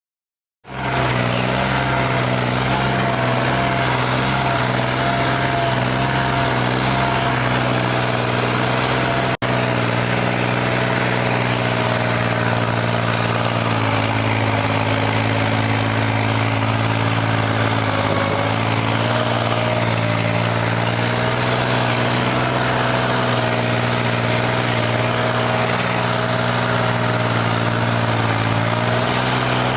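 Tractor diesel engine running steadily. It starts abruptly about half a second in and drops out for an instant about nine seconds in.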